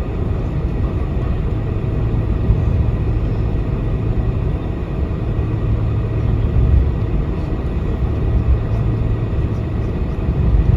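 Cabin noise inside a Boeing 747-400 while it taxis: a steady low rumble from the engines at idle and the rolling airframe, with a constant hum.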